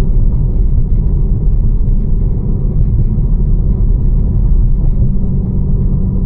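BMW M4 Competition's twin-turbo straight-six, running catless, with a steady low exhaust drone and road rumble as the car drives along at an even speed. The engine note holds steady.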